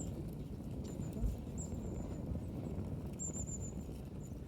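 Campfire burning with a low steady rush and faint crackles, with thin high-pitched squeals: a short one about one and a half seconds in and a longer wavering one about three seconds in.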